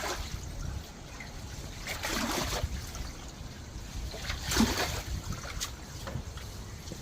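Water trickling, with two louder splashes about two and four and a half seconds in, the second the louder.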